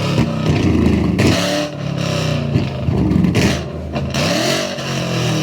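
A Ford Mustang engine revved hard several times through its exhaust, the pitch climbing and dropping with each blip of the throttle.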